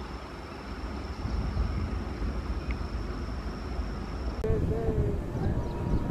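Steady low rumble of a train running past, cut off abruptly about four and a half seconds in and followed by similar rumble with a faint voice.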